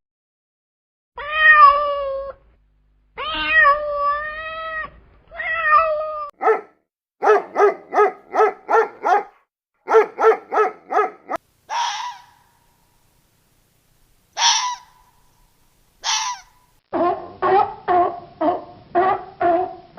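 A string of separate animal calls: a few drawn-out, gliding cat meows first, then runs of short rapid calls at about three a second, three short harsh cries, and a fast pulsing bleat-like call near the end.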